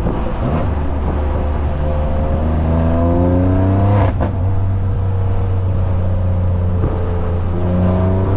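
BMW S55 twin-turbo inline-six running through catless downpipes, a single mid pipe and an open valved axle-back exhaust, pulling under acceleration. The note climbs in pitch for a couple of seconds, breaks off sharply about four seconds in and settles lower and steadier, then starts to climb again near the end.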